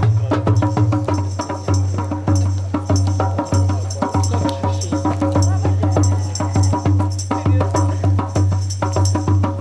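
Music driven by fast, rhythmic hand-drum strokes over a steady low drone.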